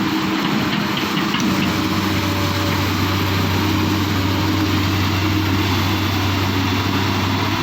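Excavator's diesel engine running steadily, its low hum getting stronger about two seconds in.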